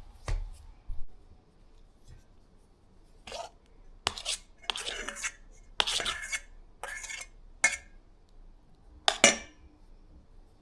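Kitchenware clinking and scraping: a utensil against a bowl or plate in a string of short strokes, some ringing briefly, with a couple of knocks about a second in.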